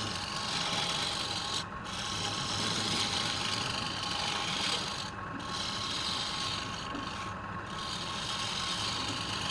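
Wood being cut on a turning lathe: a steady rasping hiss of the tool against the spinning wood, with a low hum underneath, breaking off briefly three times.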